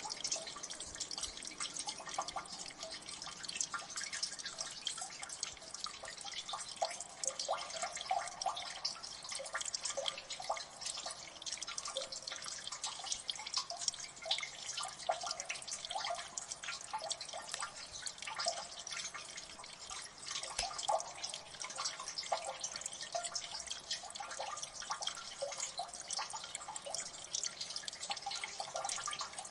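Water dripping in a gully: many drips falling continuously and overlapping, a dense, steady patter of small ticks.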